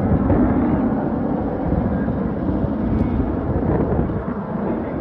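Military aircraft engine noise: a loud, steady rumble, with wind buffeting the microphone.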